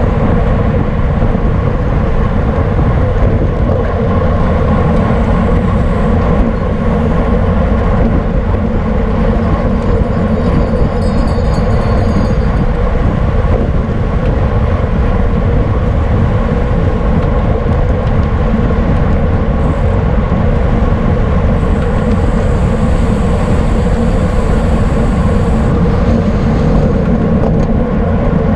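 Wind rushing over the microphone of a camera riding on a racing bicycle, a loud steady rumble with a steady hum from the tyres and bike underneath.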